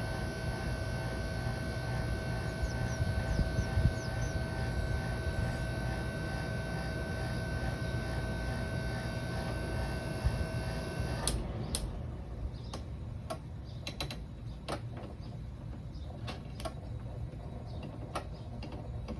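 Window air conditioner running with a steady hum and a whine, shut off abruptly about eleven seconds in, followed by scattered clicks and knocks from handling.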